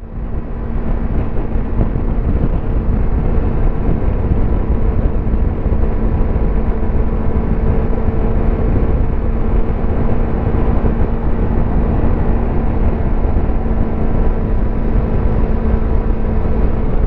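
Yamaha YZF-R25's 250 cc parallel-twin engine at steady highway cruise, its exhaust note holding one even pitch over a heavy low wind-and-road rumble. The sound fades in at the start.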